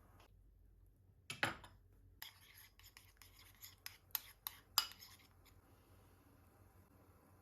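Kitchen tableware being handled: a sharp clink a little over a second in, then a run of light clinks, clatters and rubbing over the next few seconds, the sharpest about five seconds in.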